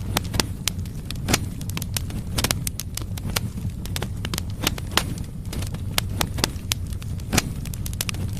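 Firewood logs burning in a fireplace: a steady low rumble of the flames with sharp, irregular crackles and pops, several a second.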